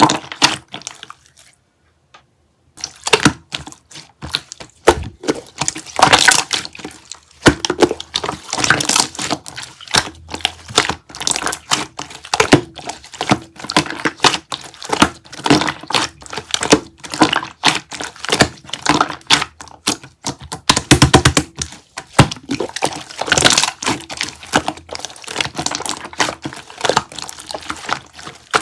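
Dense, irregular crackling and clicking, with short wet-sounding pops, from something being handled close up; it drops out briefly about two seconds in.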